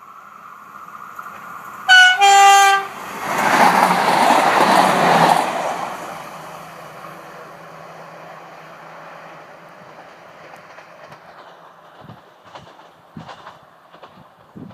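An AGC regional train in Picardie livery sounds its two-tone horn, a brief higher note followed by a longer lower one. It then passes close by with a loud rush of wheel and rail noise that fades as it moves away.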